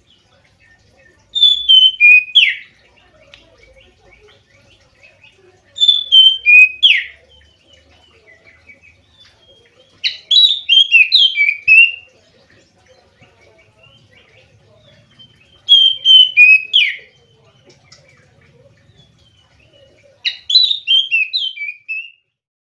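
Oriental magpie-robin (kacer) singing: five loud phrases about every four to five seconds, each a quick run of falling whistled notes, with faint chirps in between.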